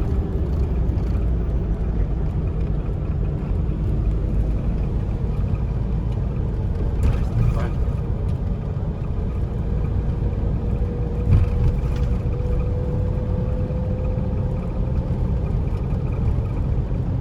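Steady road noise inside a moving car's cabin: a constant low rumble of engine and tyres. A faint whine slowly rises in pitch through the middle, with a couple of light knocks.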